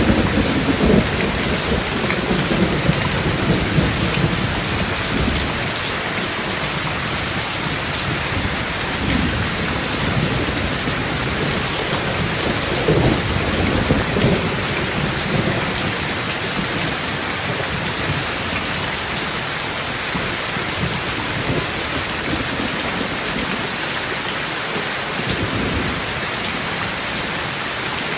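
Heavy rain falling steadily, with thunder rumbling low underneath, loudest about the start and again about halfway through.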